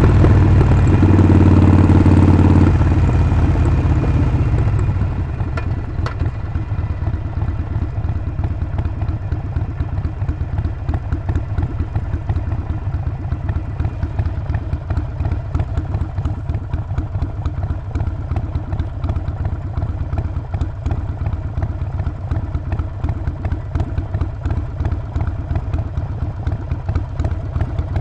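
Harley-Davidson Sportster 48's 1200 cc air-cooled V-twin running loud under power, then dropping off about three to five seconds in and settling into a steady, lower beat at low revs.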